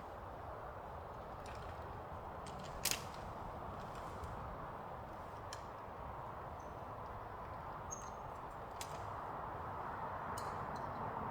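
Wood fire crackling: a steady low hiss with scattered sharp pops, the loudest about three seconds in.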